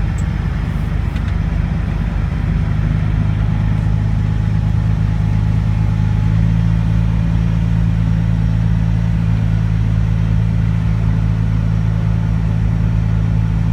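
Heavy diesel truck engine running steadily, a low even drone.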